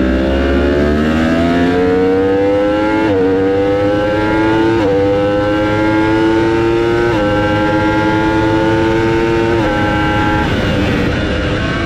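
Racing motorcycle engine accelerating hard through the gears. Its pitch climbs steadily, then drops sharply at each upshift, four shifts roughly two seconds apart, and it fades slightly near the end.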